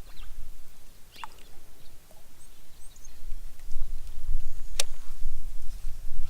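Wind rumbling on the microphone outdoors, growing stronger about halfway through, with a single sharp click a little before the end and a few faint, high bird chirps.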